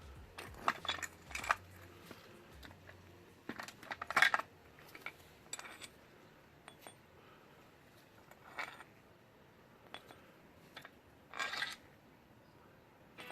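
Small metal bolts clinking and rattling as they are handled and set down: a series of light metallic clinks at irregular intervals, the loudest cluster about four seconds in.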